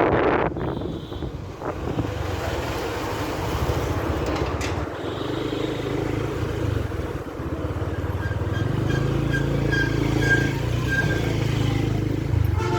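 Motorcycle engine running steadily while riding, a low hum that grows stronger about eight seconds in.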